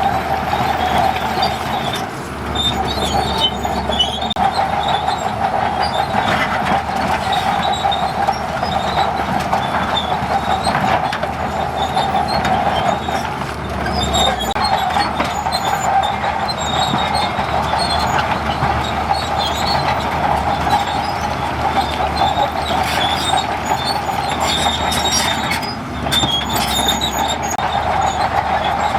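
Tracked bulldozer working, its engine running steadily under the squeal and clank of its steel tracks.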